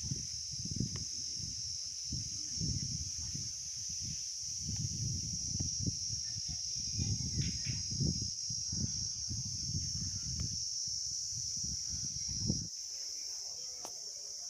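Insects, such as crickets, chirring steadily in a high, even tone, with irregular low rumbling underneath that stops about twelve seconds in.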